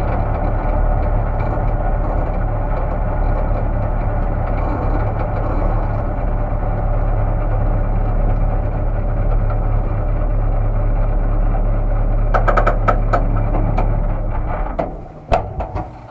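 Race car's engine heard from inside the cabin, idling and running at low speed with a steady low drone. A quick run of sharp clicks comes about twelve seconds in, and the engine is switched off about fifteen seconds in, followed by a few more clicks.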